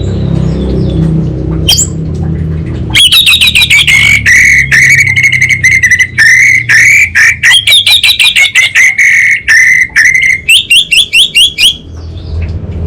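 Orange-headed thrush (anis bata) giving a long, loud, rapid chattering call of quickly repeated sharp notes, starting about three seconds in and stopping shortly before the end. A low hum is heard before the calling begins.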